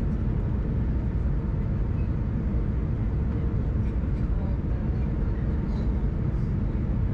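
Steady low rumble of an Airbus A319 heard from inside the passenger cabin: engine and airflow noise with a faint constant hum, without changes or sudden events.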